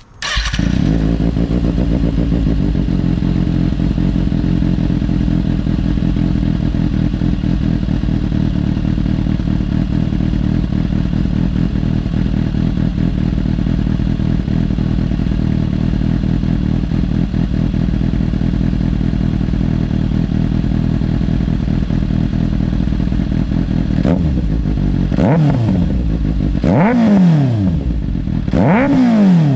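2024 Kawasaki Ninja ZX6R's 636cc inline-four with an M4 GP19 slip-on exhaust starting warm, catching at once and idling steadily. Near the end it is revved in three or four quick throttle blips, each rising and falling in pitch.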